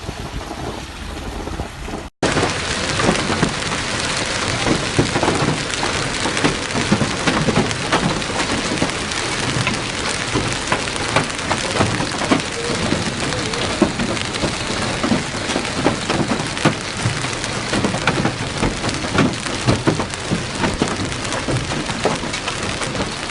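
Heavy rain pouring down, thick with many sharp individual hits. It starts abruptly about two seconds in, after a quieter stretch of rain.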